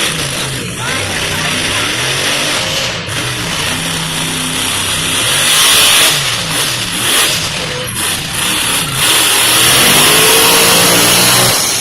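Monster truck engine revving up and down, loudest about halfway through and again near the end.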